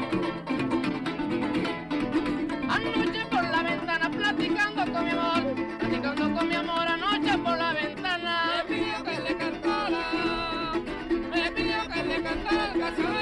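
Son jarocho band playing an instrumental passage: fast, rhythmic strumming and plucking of string instruments, with a lead melody of bending notes over it.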